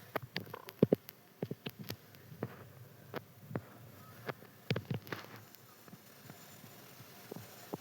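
Scattered sharp clicks and light knocks at an uneven pace, most of them in the first five seconds, the loudest a close pair about a second in.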